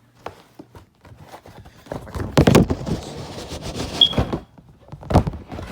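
A cardboard firework shell kit being handled and opened: rustling and scraping of packaging for about a second and a half, then a couple of sharp knocks as items are set down.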